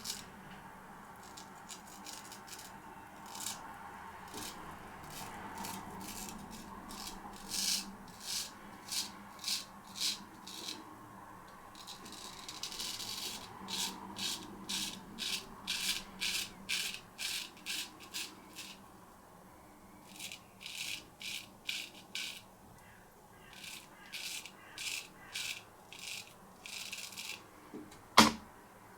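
Straight razor shaving through lathered stubble: short scraping strokes in runs of several, about one or two a second, with pauses between runs. A single sharp click comes near the end.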